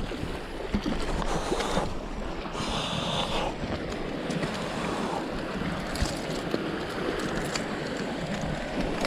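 Sea waves washing against the rocks, with wind buffeting the microphone and a few small knocks.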